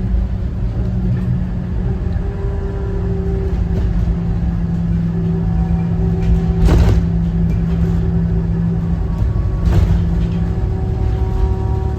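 School bus under way, heard from on board: the 2014 Thomas Saf-T-Liner C2's Cummins ISB 6.7 six-cylinder diesel runs with a steady drone. Two brief, loud bursts of noise come about seven and ten seconds in.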